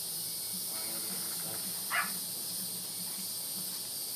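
Steady high-pitched drone of insects, with faint background voices and one short louder voice sound about two seconds in.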